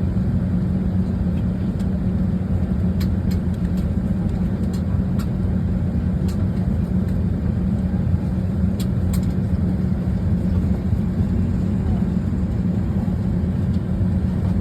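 Steady low drone inside the cabin of an Airbus A320, with a handful of faint clicks.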